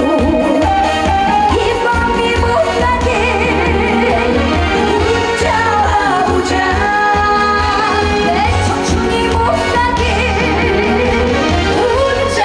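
Korean trot song: a woman singing with a wavering vibrato over a backing track with a steady low beat.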